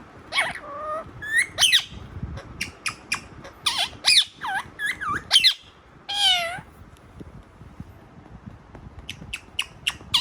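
Parrot calling: a string of short squawks and whistled calls that glide up and down in pitch, mixed with sharp clicks, pausing for a couple of seconds near the end before a few more clicks and calls.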